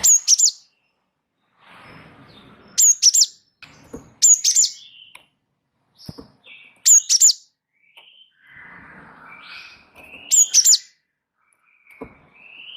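Gelatik wingko (cinereous tit) singing busily: clusters of two or three sharp, high chirps repeated every couple of seconds, with softer, lower chattering notes between them.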